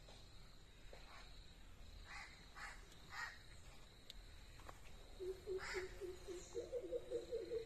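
Birds calling outdoors: several short, harsh calls, then from about five seconds in a low, rapidly pulsing call that keeps going, over a faint steady high-pitched whine.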